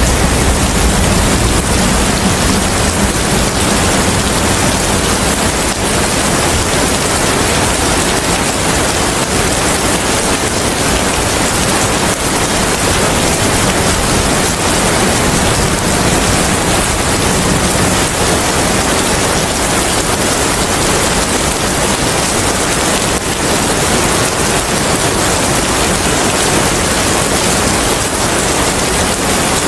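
Steady heavy rain with wind, an even hiss of rain falling on surfaces, with a low rumble that fades over the first few seconds.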